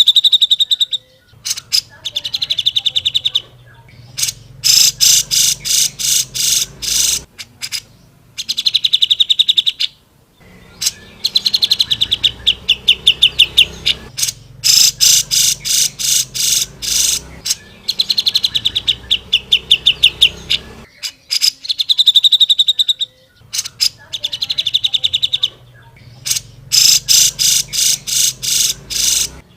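Grey-cheeked bulbul (cucak jenggot) singing loud phrases of rapid repeated notes, each phrase one to three seconds long with short pauses between, over and over.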